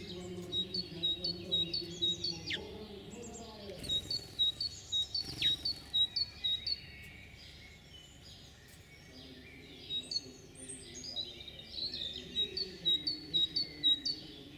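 Small songbirds chirping: runs of short, high, evenly spaced chirps, about four a second, lasting a few seconds each. Two sharp falling whistles come through, one about two and a half seconds in and one about five and a half seconds in.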